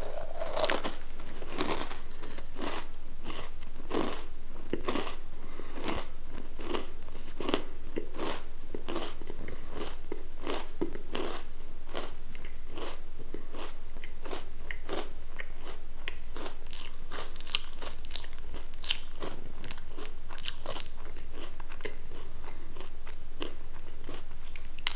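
Crunchy potato sticks being chewed: a steady, rhythmic run of sharp crunches as a mouthful is chewed.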